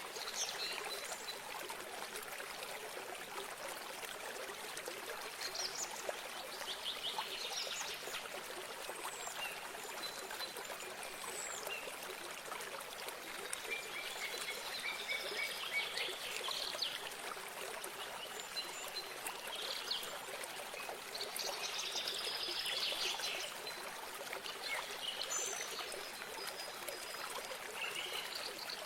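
Water running steadily in a small stream or spring, with birds chirping and giving short trills over it every few seconds.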